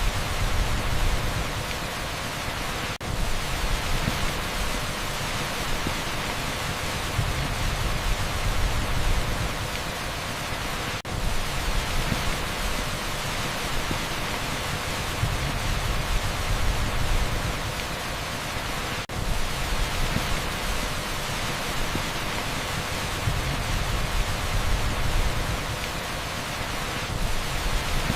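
Heavy rain pouring onto asphalt: a dense, steady hiss with a low rumble that swells and falls, broken by a brief dip about every eight seconds where the recording loops.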